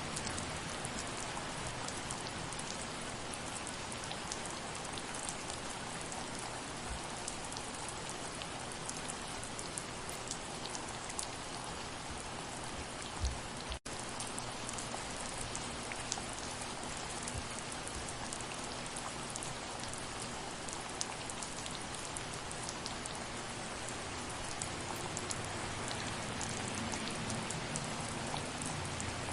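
Steady soft rain, a constant hiss with many individual drops ticking on a surface. There is one momentary break in the sound about halfway through.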